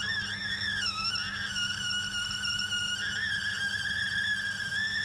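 Cutting tool squealing as it bores into nylon on a milling machine: a steady, high-pitched singing tone that wavers a little and rises briefly near the end, over the steady hum of the machine's motor.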